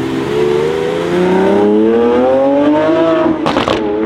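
Lamborghini Aventador's 6.5-litre V12 accelerating hard: the revs climb steadily for about three seconds, then a short sharp crack at the upshift and the engine note drops to a lower pitch.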